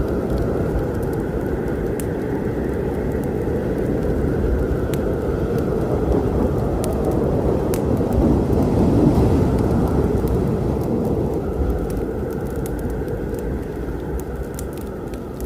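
Rolling thunder over steady rain, the low rumble building to a peak about nine seconds in and then slowly fading. Scattered faint crackles from a wood fire sit on top.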